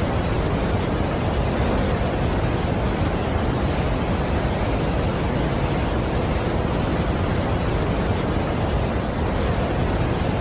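Steady, even roar of a large waterfall's falling water, Niagara Falls, with no breaks or changes.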